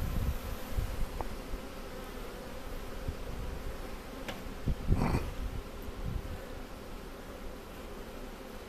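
A swarm of honey bees buzzing, a steady many-bee hum, with a brief knock from handling the hive about five seconds in.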